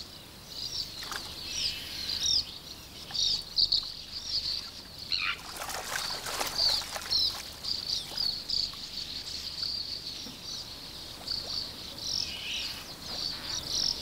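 Birdsong: a small bird's quick, high chirps and trills, repeating in short phrases, with a brief rustle about five and a half seconds in.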